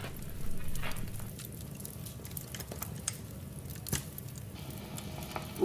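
Wood fire crackling in a fireplace: a faint even hiss with scattered small pops, and a few sharper snaps.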